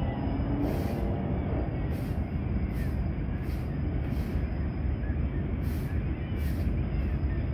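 Freight train hauled by two Class 60 diesel locomotives crossing a steel rail bridge: a steady heavy rumble with irregular sharp clicks.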